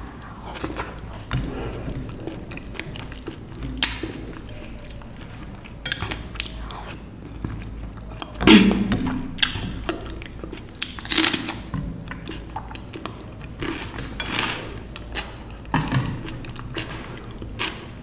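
A person eating dal and rice up close to the microphone: wet chewing and biting with irregular sharp crunchy clicks, the loudest about halfway through.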